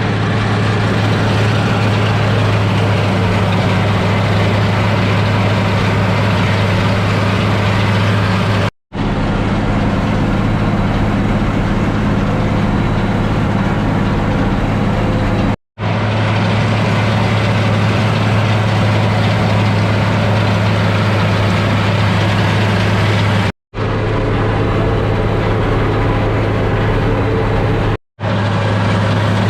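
International 1086 tractor's six-cylinder turbo diesel running steadily while cutting hay, a constant low drone. It drops out to silence four times for a split second.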